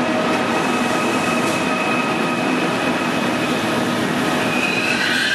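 A Trenitalia passenger train's coaches rolling slowly past on jointed track. Steady wheel-and-rail noise runs under a steady high squeal from the wheels or brakes.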